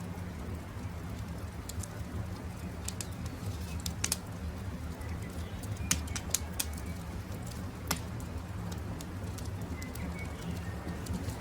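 Crackling campfire: a steady low rumble of burning wood with scattered sharp pops, the loudest about four, six and eight seconds in. Faint short bird calls now and then.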